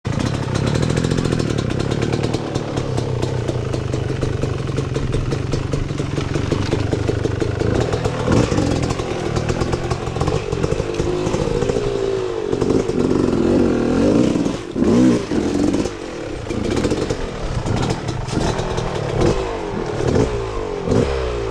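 Enduro dirt bike engine running at steady throttle, then from about halfway revving up and down in short repeated blips, with some clatter.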